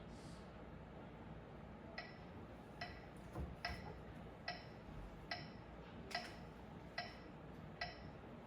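Faint metronome ticking steadily, about 72 beats a minute, starting about two seconds in.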